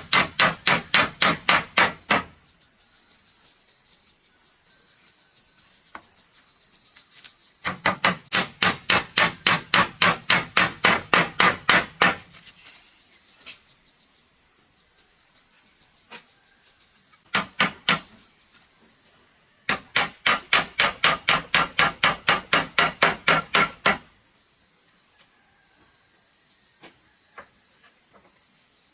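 Rapid, evenly paced hammer blows on wood, about four or five a second, in three long runs and one short pair with pauses between. A steady high insect drone runs underneath.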